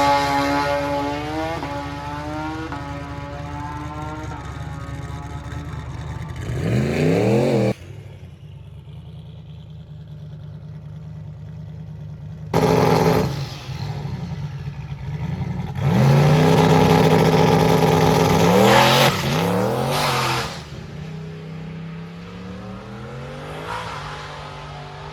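Drag-racing engines at full throttle, accelerating down the strip. The pitch climbs in steps through the gear changes, then fades as the vehicles pull away. Several separate passes, with abrupt starts and stops; the loudest run is just after the middle.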